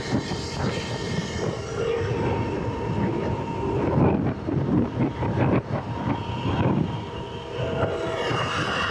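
Wind buffeting the microphone while riding a Surron electric dirt bike. A rough, uneven rush is the loudest sound, and a faint steady whine comes in near the end.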